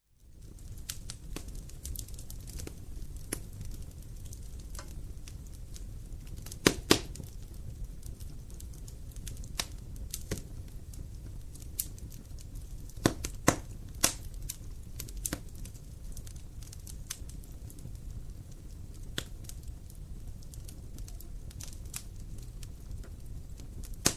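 Wood fire crackling: a steady low rumble with scattered sharp pops and snaps, the loudest in pairs about seven and thirteen seconds in. It fades in from silence at the very start.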